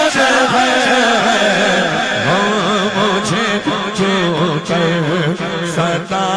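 Devotional naat singing: a voice holding long, wavering melodic notes without clear words.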